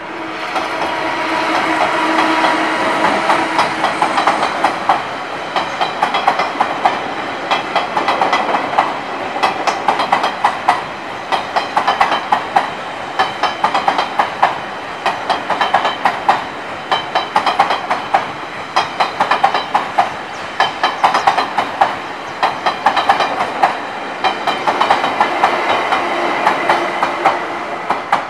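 An electric push-pull passenger train passing close by at speed: steady rolling noise with its wheels clattering over rail joints in quick regular clusters of clicks. A steady hum sounds near the start and again near the end, as the power cars at each end go by.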